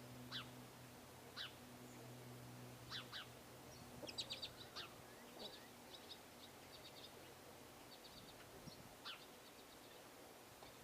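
Small songbirds calling faintly: short, sharp downward chirps every second or two, and about four seconds in a quick run of high ticking notes.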